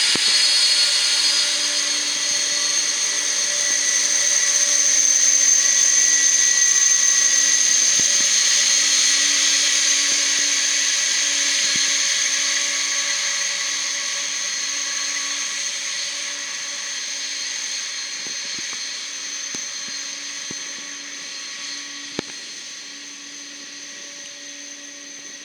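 Turbofan engines of a taxiing jet aircraft whining at low power: a steady high whine with several held tones. It swells a little in the first few seconds, then slowly fades away.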